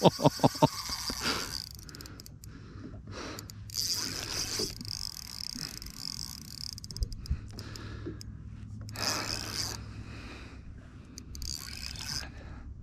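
Fishing reel clicking rapidly in an even ratcheting rhythm for under a second at the start, then intermittent scraping and rustling of the reel and rod.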